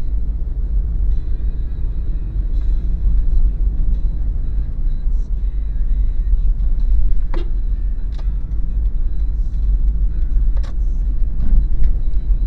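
Steady low rumble of engine and tyres inside the cabin of a 2013 Daihatsu Terios on the move, with three sharp clicks in the second half.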